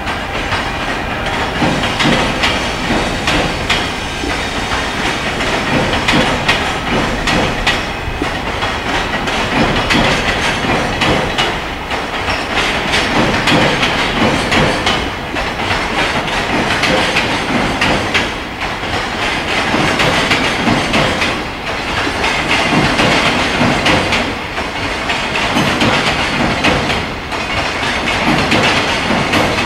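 Container wagons of a long freight train passing at speed, their wheels clattering over rail joints amid a steady rumble and rattle. The sound swells and dips every few seconds as each wagon's wheel sets go by.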